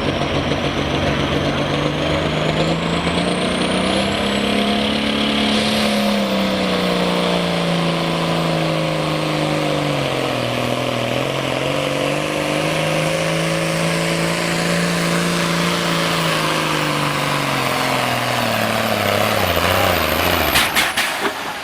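John Deere hot farm tractor's diesel engine pulling flat out under load down the track, with a high whistle climbing steeply in pitch over the first several seconds. About halfway the engine note sags as it bogs under the sled and then picks back up, before the engine winds down and stops near the end, followed by a few sharp clicks.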